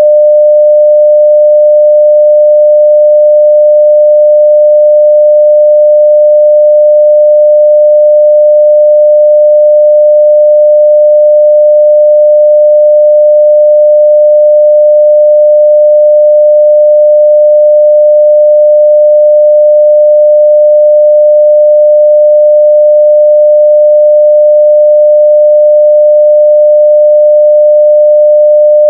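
A 600 Hz sine-wave test tone at full level, one pure steady pitch without change.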